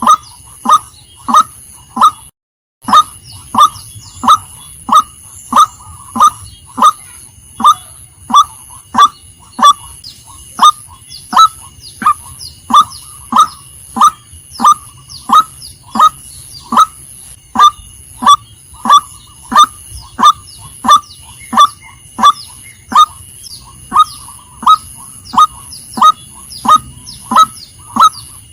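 Female white-breasted waterhen calling one short, loud note over and over, about two a second. The calling breaks off for half a second a little over two seconds in.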